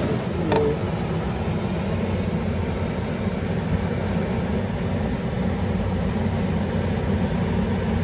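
Bunk HVAC blower motor of a 2016 Volvo VNL sleeper running steadily right after being connected, a constant whoosh of air with a low hum. A short click about half a second in.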